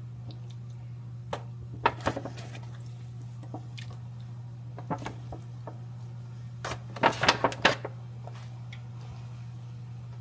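Pan and utensil clinks with soft wet squelches as cut chicken pieces are put into a tomato sauce. The clinks come scattered, with a quick flurry about seven seconds in, over a steady low hum.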